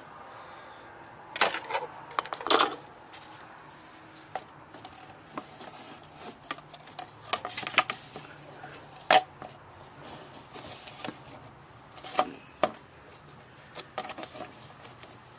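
Irregular clicks, clinks and knocks of small hard objects being handled, as fluid is being added under a truck's hood. The loudest come about one and a half and two and a half seconds in.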